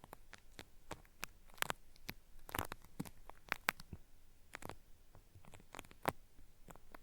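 Cotton swab working in the ear of a binaural microphone, making irregular crackling, peeling-like clicks and scratches.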